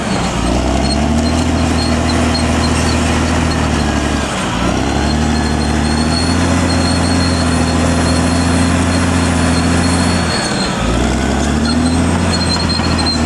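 Caterpillar D6R XL bulldozer's diesel engine running under load. The engine note sags and picks up again about four seconds in and again near eleven seconds.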